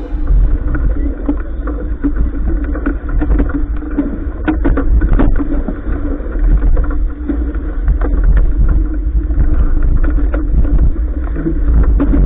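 Heavy wind buffeting the microphone aboard a sailing yacht, a loud low rumble with scattered knocks and clatter from the boat.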